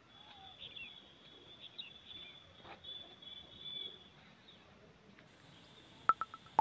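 Small birds twittering in the background, a thin high chirping for about the first four seconds. Near the end come two sharp clinks, each ringing briefly.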